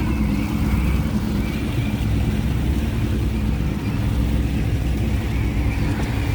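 Boat engine running steadily, a low, even rumble.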